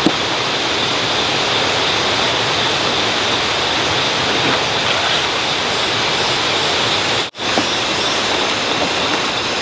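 Steady rushing noise, cut off for a split second a little after seven seconds.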